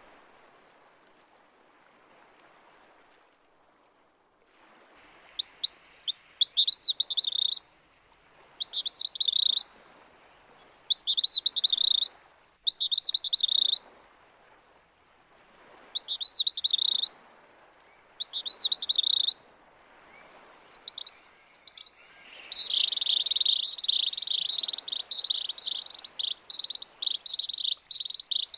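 A songbird singing: a short, high, quick phrase repeated over and over every two to three seconds, starting about five seconds in, then a longer run of continuous song near the end.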